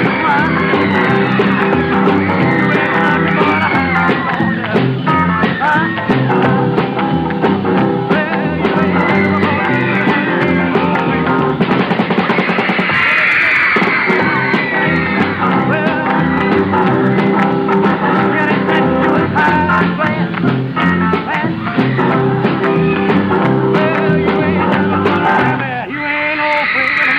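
Live rock and roll band performance: a male singer over electric guitar and drums. The sound is narrow and dull, with nothing in the high treble, as from a 1950s television recording.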